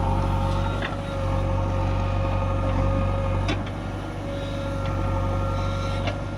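Diesel engine of heavy earth-moving machinery running steadily, with a steady whine above it and a few short sharp knocks.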